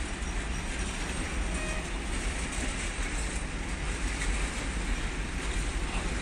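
Freight train of covered and tank wagons rolling slowly past on a far track: a steady low rumble and hiss with no clear wheel beat.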